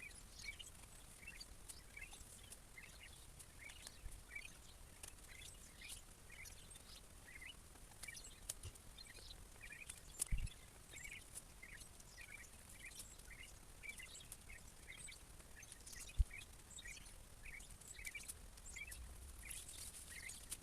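Small birds chirping repeatedly against faint outdoor background noise, with a couple of brief low thumps.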